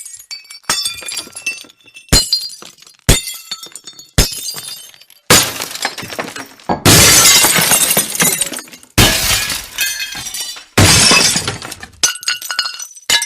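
Glass breaking again and again: sharp smashes about once a second, each followed by tinkling shards, then longer, louder crashes of shattering glass in the second half.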